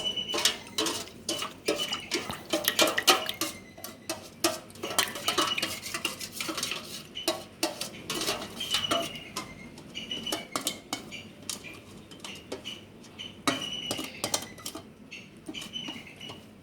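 A spoon stirring yeast and sugar into lukewarm water, clinking rapidly and repeatedly against the side of the vessel. Some of the strikes leave a short ring. This is the step that activates the yeast for the dough.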